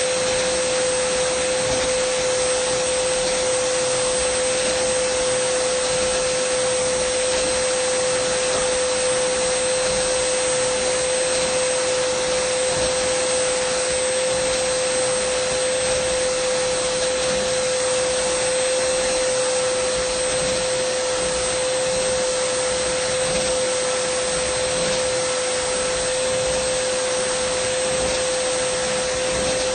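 Dyson vacuum cleaner running continuously at one steady speed: an even rush of air over a strong steady mid-pitched tone, with a fainter high whine above it.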